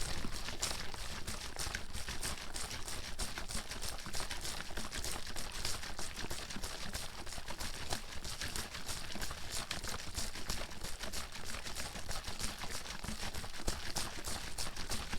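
Water bottle being shaken continuously, the water sloshing and knocking inside it in a rapid, steady run of strokes.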